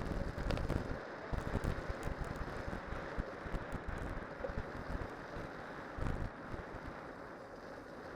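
Wind buffeting the microphone during a downhill ride on a cyclocross bike with spiked tyres, over a steady rushing of tyre and air noise, with scattered small clicks and rattles from the bike.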